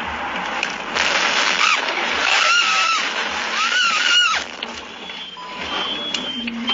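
A car horn honking: one short blast, then two longer ones, over steady road noise inside a moving car.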